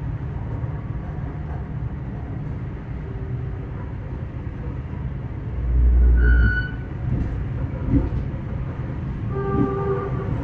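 Passenger train's steady low rumble, with a loud deep thump about six seconds in and background music.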